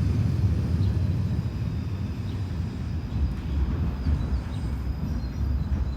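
Outdoor field recording dominated by a low, uneven rumble, with faint short bird chirps, likely sparrows, every second or so.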